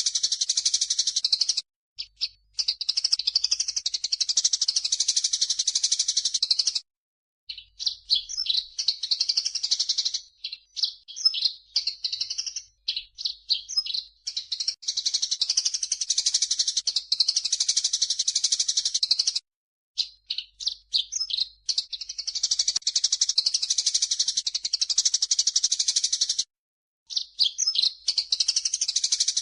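Rapid, high-pitched bird chattering and chirping in long runs, broken by several abrupt cuts to silence, from an edited bird-tutoring track mixing a grey-cheeked bulbul (cucak jenggot) with Eurasian tree sparrows (burung gereja).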